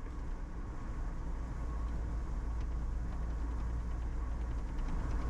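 Steady road and engine noise of a car heard from inside while driving, with a deep rumble underneath, growing gradually louder.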